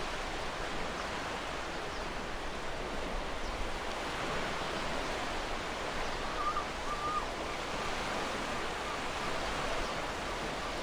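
Gentle ocean waves washing in a steady, even hiss of surf, with a couple of faint short bird calls a little past the middle.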